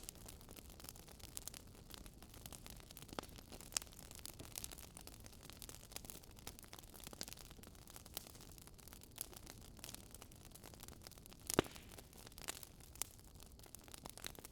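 Faint crackling of burning firewood: irregular small pops over a low hiss, with one louder pop near the end.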